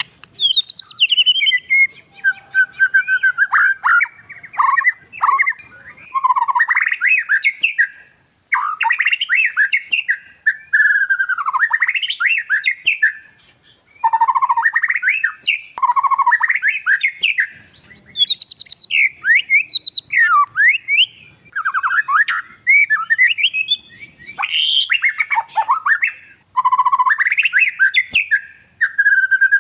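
Oriental magpie-robin (kacer) in full, vigorous song: a near-continuous run of varied whistled and chattering phrases, sweeping up and down in pitch, with only brief pauses.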